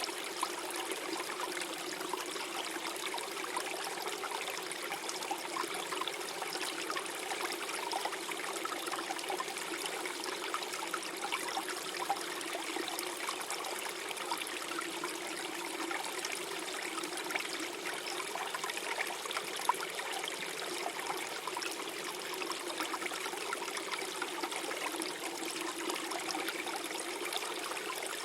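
Small forest stream flowing and gurgling over rocks, a steady babble of trickling water.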